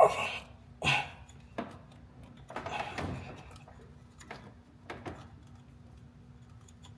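Scattered knocks and clicks of parts and tools being worked back into place around the timing belt tensioner in an engine bay, the loudest near the start and about a second in, over a faint steady hum.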